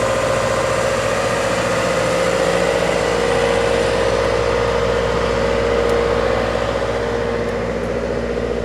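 GP-series diesel locomotive idling: a steady engine hum that eases a little near the end.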